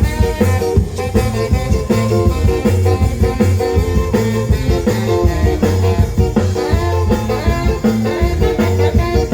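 Live ska band playing an instrumental passage, with a steady beat, a prominent bass line and guitar.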